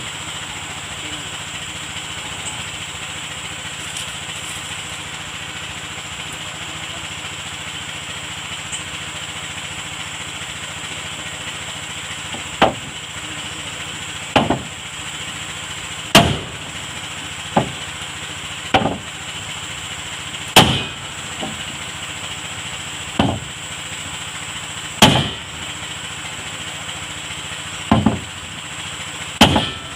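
Steady motor hum in the background. About twelve seconds in, single sharp hammer blows begin, about ten in all, one every one and a half to two and a half seconds, as planks are fastened on a wooden boat.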